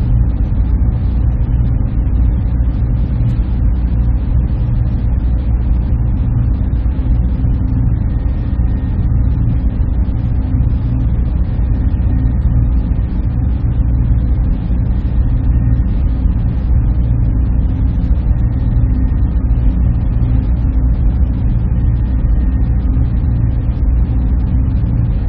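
Server room machinery running with a steady, unchanging low hum and whir, with a few faint steady tones above it.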